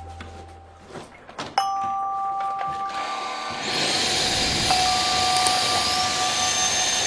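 A two-tone electronic chime sounds about one and a half seconds in. About two seconds later a cordless stick vacuum's motor starts: a steady rush of air with high whines that climb in pitch as it spins up.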